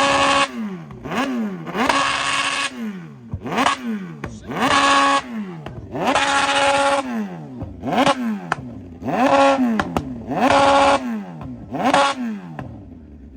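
A motorcycle engine revved hard about ten times in a row. Each rev climbs, holds briefly at a steady top pitch, then falls back to idle. The revving stops near the end.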